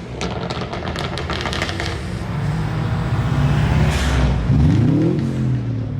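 Sports car engine at a street car meet: a run of rapid crackles in the first two seconds, then a steady engine note and a short rising rev about four and a half seconds in.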